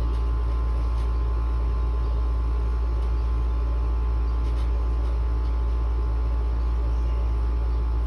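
Window air conditioner running with a steady low hum and an even rush of fan noise.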